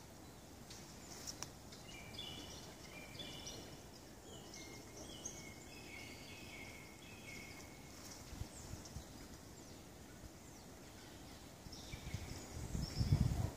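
Woodland birdsong: a bird sings runs of short, clear notes through the middle, with fainter calls from other birds over a quiet background. Near the end a louder low rumbling noise comes in.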